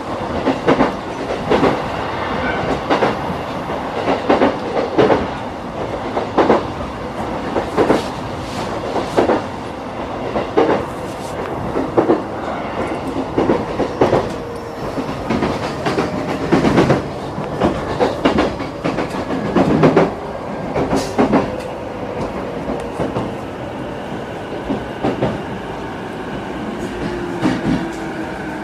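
Running sound inside a JR East E233-5000 series electric train's motor car: wheels clack over rail joints at irregular intervals above a steady rumble. From about halfway a traction motor tone slowly falls in pitch and drops faster near the end, as the train slows on its approach to the next station.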